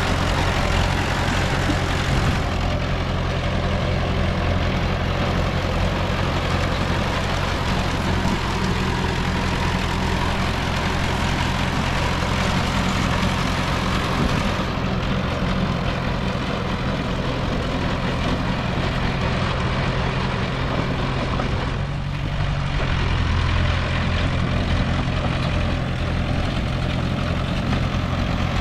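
Diesel engine of a Komatsu D20P bulldozer running steadily, with a brief dip in level a little past two-thirds of the way through.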